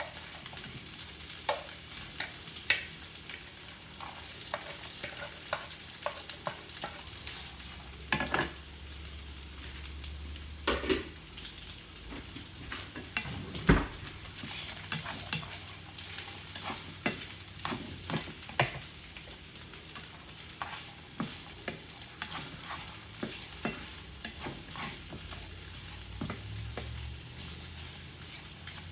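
Chopped ham and Spam sizzling in a frying pan while a spatula stirs and scrapes them, with frequent sharp taps of the utensil on the pan and one louder knock about 14 seconds in.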